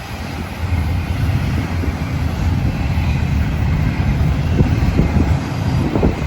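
Florida East Coast Railway train passing, a steady low rumble of the train running on the rails.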